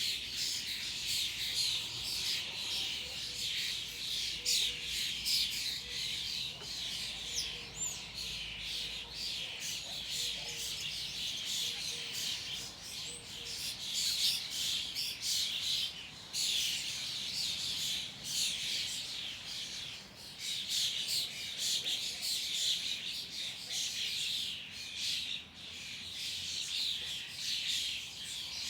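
A dense, continuous chorus of many small birds chirping and calling over one another, with no pauses.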